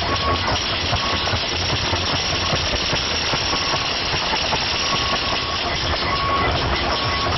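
A steady engine running, with a low hum and short, high tones that come and go.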